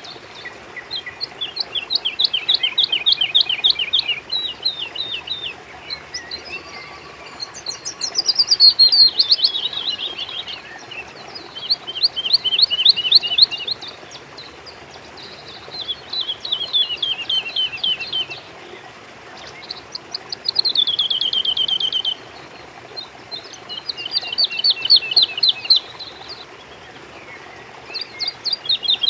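A songbird singing a repeated song: trilled phrases of rapid, falling notes, each a couple of seconds long, coming about every four seconds.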